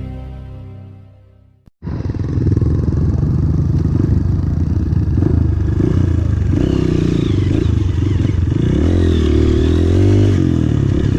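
Music fades out over the first two seconds, then off-road trail motorcycle engines cut in suddenly and run loudly, their pitch rising and falling as the throttle is worked.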